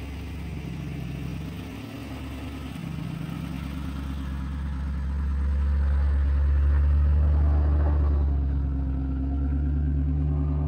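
Jeep Wrangler Rubicon engine idling steadily with a low rumble, getting louder for a few seconds in the middle.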